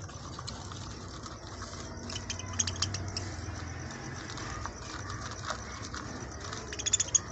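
Budgerigars chirping, with a cluster of short high chirps about two and a half seconds in and another near the end, over a low steady hum.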